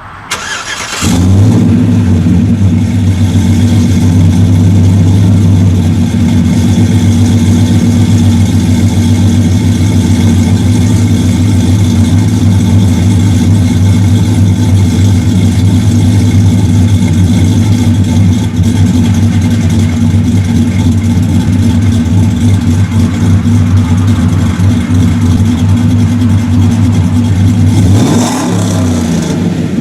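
Cammed 6.2L V8 running through long-tube headers and a 2.25-inch true dual exhaust with a three-chamber Flo-Pro muffler and no cats. It comes in loud about a second in and holds a steady engine speed, with a brief dip and return in pitch near the end.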